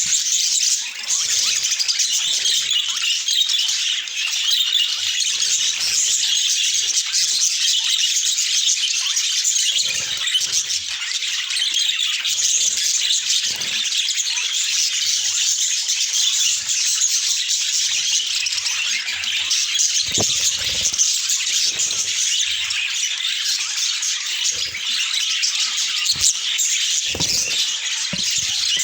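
A flock of budgerigars chattering and warbling without a break in a dense, high-pitched chatter, with a few soft knocks now and then.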